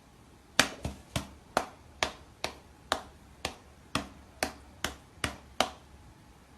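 A run of about thirteen sharp clicks or taps, evenly spaced at roughly two a second, then stopping.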